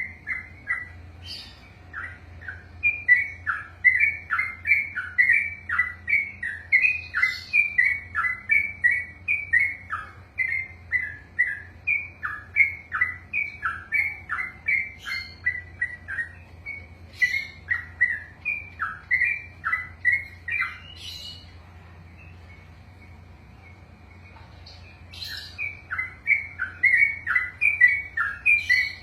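Yellow-vented bulbul (trucukan) singing its long rolling song: a fast run of short, down-slurred notes, two or three a second. It breaks off for a few seconds about two-thirds of the way through, then starts the run again.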